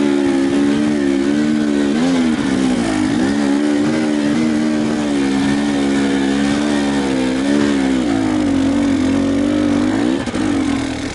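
Enduro motorcycle engine running under load, its pitch rising and falling with the throttle, with a brief drop near the end.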